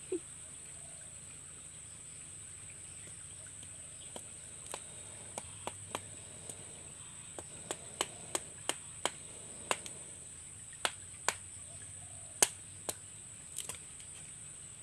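Wood cooking fire crackling: irregular sharp pops and snaps, sparse at first and then coming every half second or so from about four seconds in, the loudest near the end.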